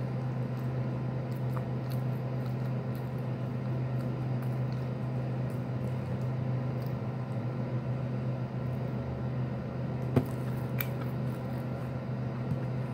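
A person chewing a sandwich, with small faint mouth clicks, over a steady low hum; one sharper click about ten seconds in.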